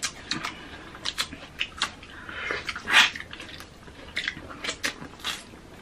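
Close-miked eating of orange wedges: wet mouth clicks and smacks of biting and chewing, with a louder slurp about three seconds in.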